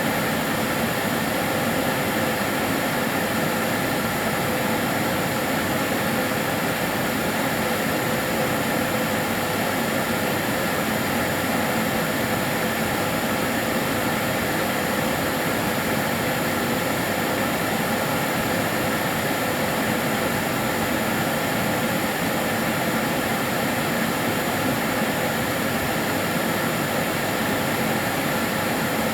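Kärcher DS 6 Premium water-filter vacuum cleaner running steadily: an even rushing whoosh of its motor and airflow with a faint steady whine, no change in pitch or level.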